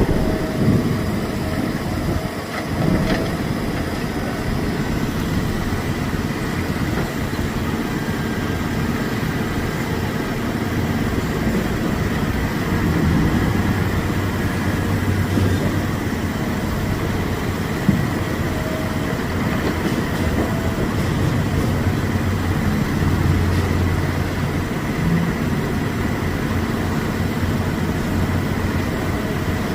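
Heavy diesel engines of dump trucks and earthmoving equipment running steadily, the low engine drone swelling and easing a couple of times, with one sharp knock about eighteen seconds in.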